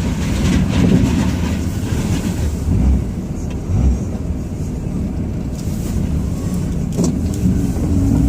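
Ram 2500's Cummins diesel engine running steadily while the truck plows snow, heard from inside the cab, with a sharp knock about seven seconds in.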